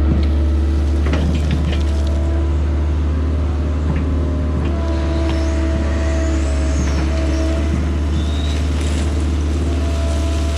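Diesel engine of a piece of heavy earthmoving equipment running steadily under work, with a few short knocks and clunks here and there.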